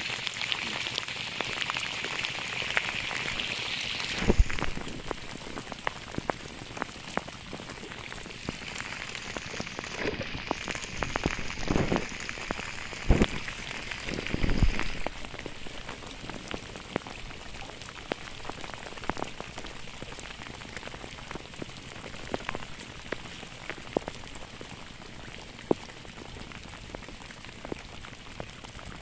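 Rain falling steadily, a constant hiss with many drops ticking close by. A few louder dull knocks land about four seconds in and again around thirteen to fifteen seconds in.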